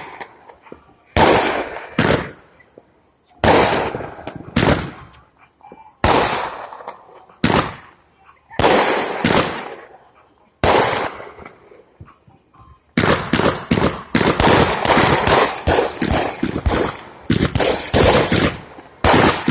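Fireworks exploding: single sharp bangs, each dying away over a second or so, going off every one to two seconds. About two-thirds of the way in they give way to a fast, dense string of crackling bangs.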